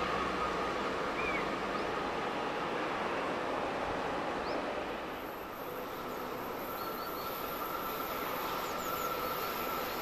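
Electric freight train approaching on the line: a steady rumble with a faint held hum. The picture changes about five seconds in, after which another train is heard approaching from a distance. Small birds chirp faintly a few times.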